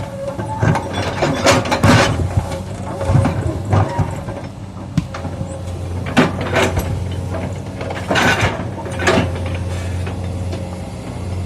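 Komatsu PC200 excavator's diesel engine running steadily, with irregular knocks and clatters of stone boulders being moved.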